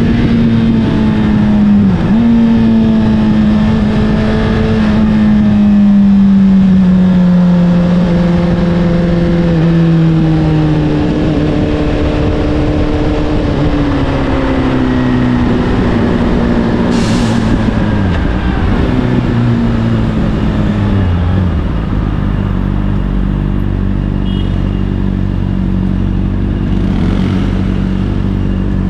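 Honda CBR600RR inline-four engine through an Akrapovic exhaust, heard from the bike while riding. The engine note falls slowly as the bike slows, drops in several steps, then settles to a steady idle for the last several seconds.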